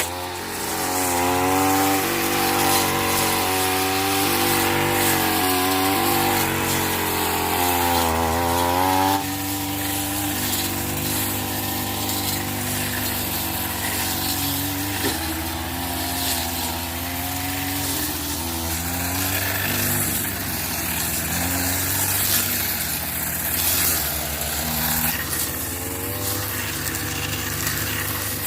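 Engine running continuously, its pitch rising and falling as the load changes. It drops a little in level and steadies about nine seconds in.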